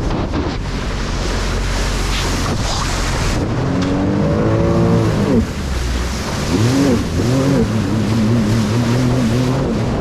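Jet ski engine running under throttle, over a constant rush of wind and water noise. The engine climbs in pitch, drops off about halfway through, then picks up again and holds with a wavering pitch.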